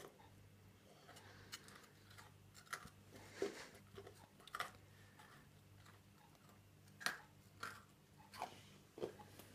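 A child biting into and chewing a crunchy iced biscuit topped with sprinkles: scattered short crunches and clicks, over a faint steady hum.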